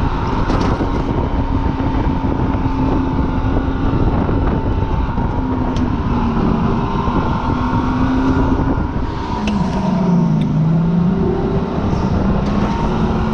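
Supercharged car engine running hard at speed, with heavy wind and road noise. The engine note drops about nine seconds in, then climbs again.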